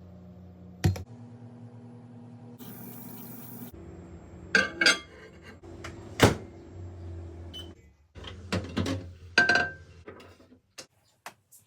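Microwave oven running with a steady hum, broken by several sharp clunks and knocks like a door and a dish being handled. The hum stops about eight seconds in, followed by a few more knocks.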